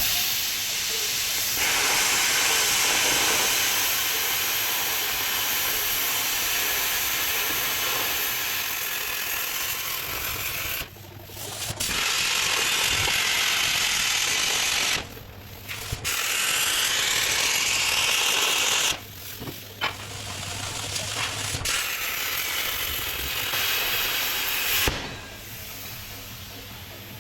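Plasma cutter cutting 10 mm steel plate, giving a loud, steady hiss in four long runs with short breaks where the arc stops between cuts; the last cut ends about a second before the end.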